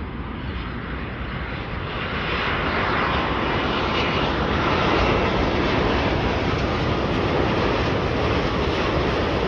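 Jet airliner, a Boeing 787-9 Dreamliner on its landing approach: a steady engine rumble that grows louder over the first few seconds as it nears, then holds.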